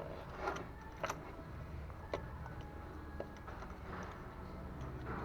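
A steady low hum with scattered light clicks and knocks, about one a second.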